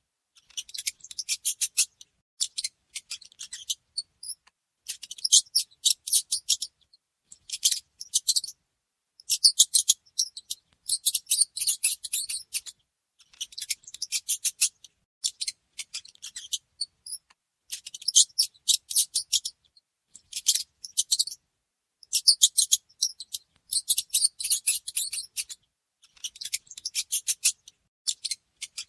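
Mice making rapid, high-pitched chittering, many quick ticks in a row, in bouts of one to two seconds with short gaps between them.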